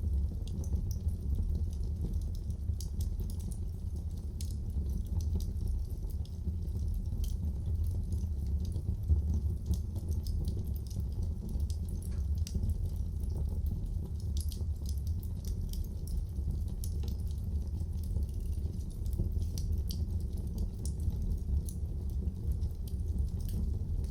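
Wood fire burning in a fireplace: a steady low rumble of flames with frequent small crackles and pops, one louder pop about nine seconds in.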